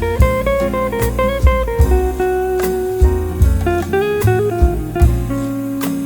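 Instrumental jazz passage with no vocals: a plucked guitar melody of distinct stepping notes over bass and drum kit.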